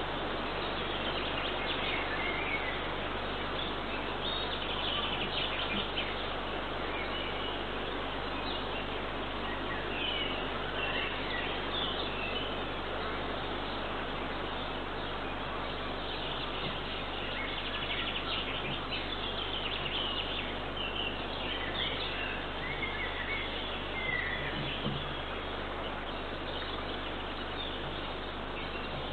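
Steady outdoor background hiss from a nest camera's microphone, with small birds chirping and singing on and off in the distance.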